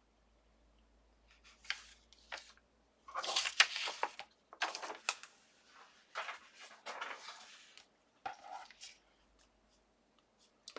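Paper and cardstock being handled, pressed down and rubbed on a craft desk: irregular rustles and scrapes in short bursts.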